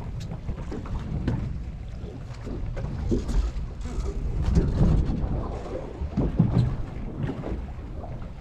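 Wind buffeting the microphone on a small fishing boat at sea, a low rumble that swells in gusts about three to five seconds in and again near six and a half seconds, with water moving against the hull.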